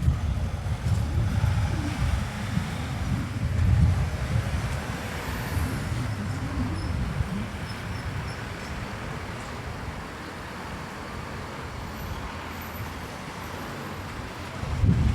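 Town-centre road traffic passing by, a low rumble that is loudest in the first half and settles to a quieter, steady traffic noise after about seven seconds.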